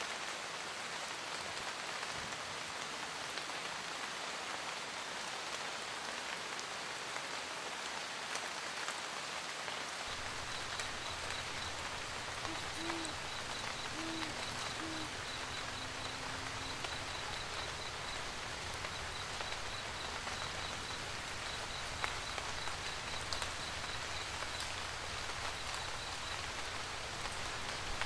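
Steady rain falling on a surface, with an owl hooting three short times about halfway through. A low steady rumble comes in about a third of the way in, and a faint, rapidly pulsing high chirp runs under the rain from then on.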